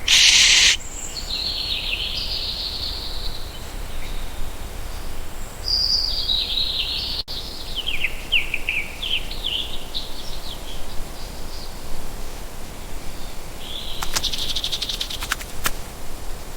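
Birds calling: high chirps and short falling notes in a series, over a steady background hiss. A brief loud rush of noise opens it, and a quick run of sharp clicks comes near the end.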